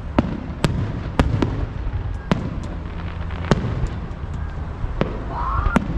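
Fireworks show: about nine sharp aerial-shell bangs at irregular intervals over a steady low rumble of further bursts.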